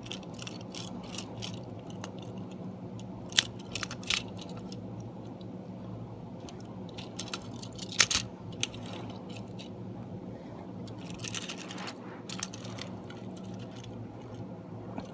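A small push-along toy engine being handled: scattered light clicks and taps, with sharper clicks about three and a half seconds in and about eight seconds in.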